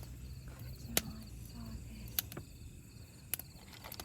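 Crickets chirping in short pulsed trills that repeat every second or so, with a few sharp clicks in between.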